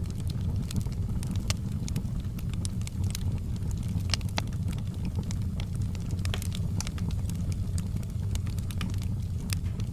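Fireplace fire burning: irregular crackles and pops over a steady low rumble.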